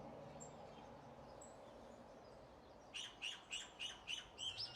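A bird chirping: a few faint high chirps, then about three seconds in a quick run of loud, evenly spaced chirps, roughly three to four a second.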